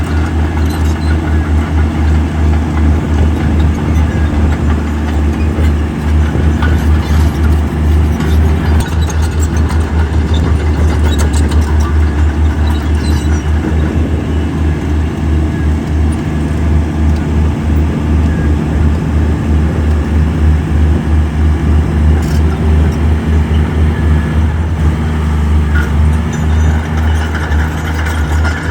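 Heavy diesel earthmoving machinery running steadily with a deep, pulsing engine rumble, with a few brief knocks and rattles.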